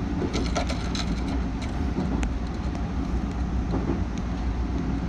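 Aichi Loop Line 2000 series electric train running, heard from inside the cab: a steady low rumble of wheels and motors on the rails, with a quick cluster of clicks and knocks in the first two seconds.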